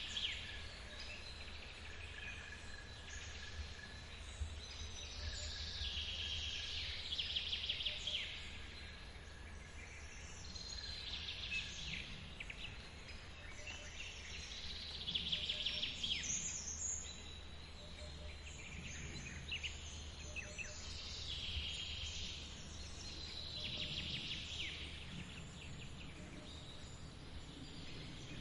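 Songbirds singing short trilled phrases that repeat every four or five seconds, over the steady low rumble of a forest waterfall.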